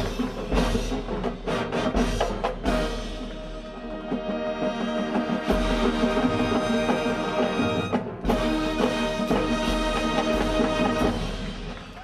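Marching band brass and percussion playing the close of a show: a run of sharp accented drum and brass hits, then full sustained brass chords over timpani, ending on a long held chord that dies away near the end.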